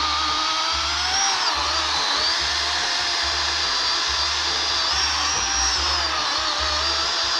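Chainsaw engine running at high revs with a wavering whine, rising and falling slightly as it works through the wood, over background music with a steady bass line.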